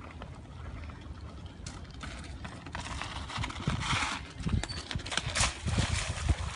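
Bicycle riding over rough ground: irregular knocks and rattles with low rumble on the microphone, and a brief hissing rush a few seconds in.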